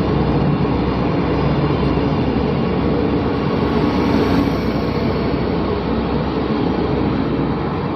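A passenger train running past close by: a steady, loud noise of its wheels on the rails and its running gear.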